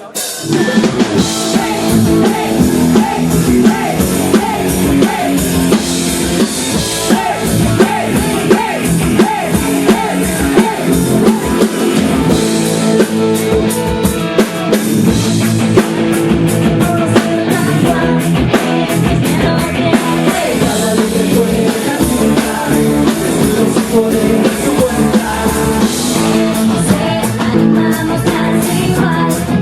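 A band playing a rock-style song live, with drum kit, guitar and singing; the music starts abruptly.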